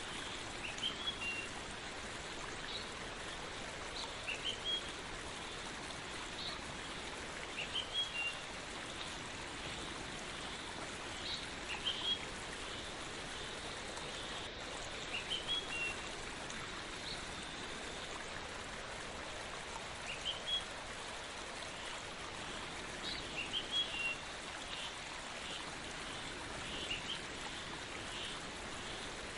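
Steady rain falling, with a small bird chirping short rising notes in little clusters every few seconds.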